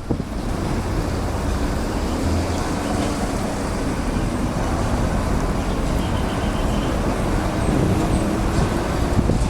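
Jet airliner engines running as a steady, loud rumble with wind noise mixed in.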